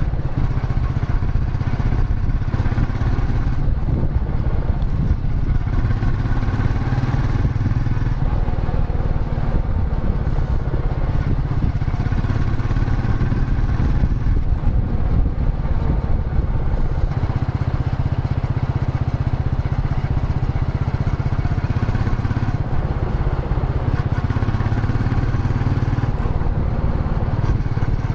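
Royal Enfield Meteor 350's air-oil-cooled single-cylinder engine and exhaust running steadily as the motorcycle is ridden.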